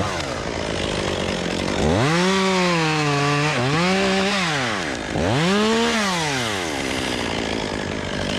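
Chainsaw revved up three times, its pitch rising, sagging briefly under load, then falling back to idle between bursts as it cuts a tree limb.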